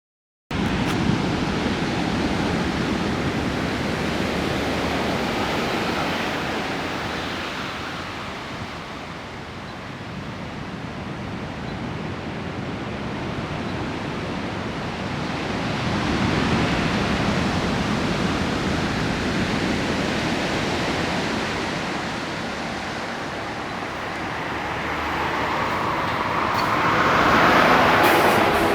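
High typhoon-driven ocean surf breaking and washing ashore: a steady rushing noise that swells and eases about every ten seconds as the waves come in, loudest near the end.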